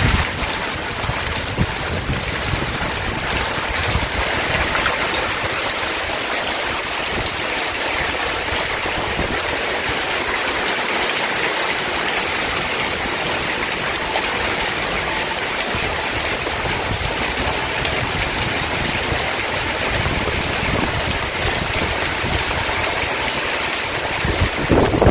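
Heavy summer-storm downpour: a steady, loud hiss of rain with running water. A low rumble comes in near the end.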